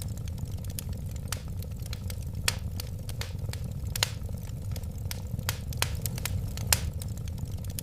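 Wood fire crackling: irregular sharp pops and snaps over a steady low rumble of flames, with a few louder pops.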